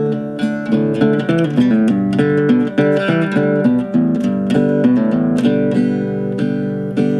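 Instrumental music: acoustic guitar strummed and plucked in a folk-blues intro, with a bass line underneath.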